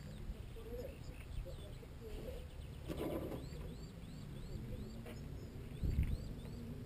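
A bird singing a run of short, high, repeated chirps over a steady low rumble, with a brief low thump about six seconds in.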